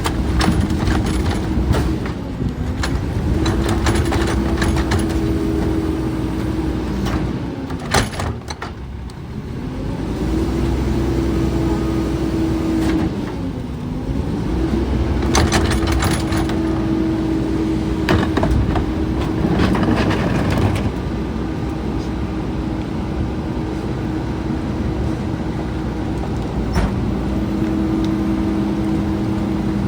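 Garbage truck running with its hydraulics working: a steady engine drone that sags in pitch and recovers several times, with scattered clanks and knocks. A second, lower steady hum joins near the end.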